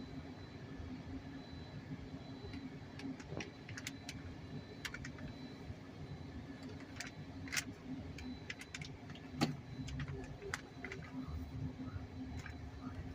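Car heard from inside the cabin: a steady low hum with scattered light clicks and ticks, two of them louder at about seven and nine seconds in.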